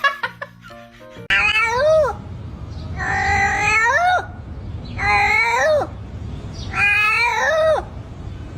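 Domestic cat giving four long, drawn-out meows, each about a second long with a pitch that bends up and then falls at the end, spaced evenly about a second and a half apart.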